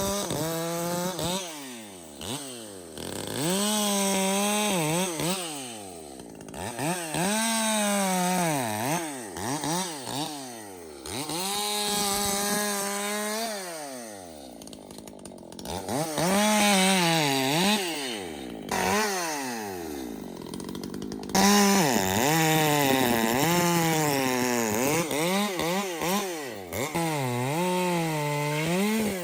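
Ported Echo two-stroke chainsaw cutting wood: the engine is repeatedly opened up to full throttle and let back down to idle, about eight times, its pitch wavering and dipping under the load of each cut.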